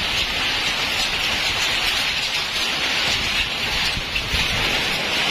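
Heavy rain pouring down steadily, a dense even hiss with no break.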